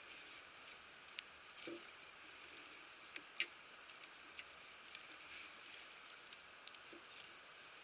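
Wood fire crackling: a soft hiss with irregular snaps and pops, one sharper pop about three and a half seconds in, and a dull knock a little earlier.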